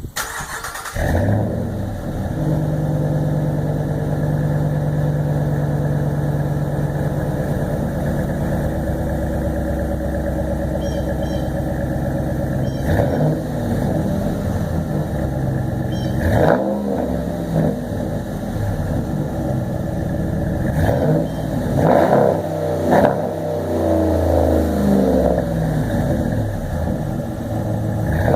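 A 2014 Ram's 5.7-litre Hemi V8 through a Thrush welded muffler with the resonators cut out, starting about a second in and settling into a loud idle. It is revved briefly several times, with two quick blips close together near the end.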